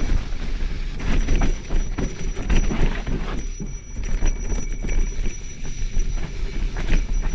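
Mountain bike rolling over a rough dirt trail, with irregular rattling and knocking from the bike and a steady low rumble of wind on the microphone.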